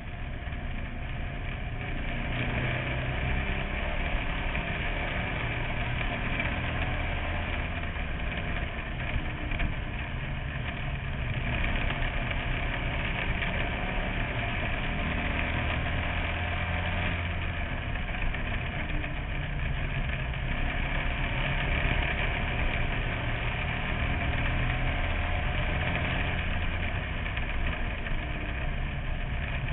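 Bandolero race car's small engine running steadily at low revs, heard from inside the car, with the level swelling and easing a little but no hard revving.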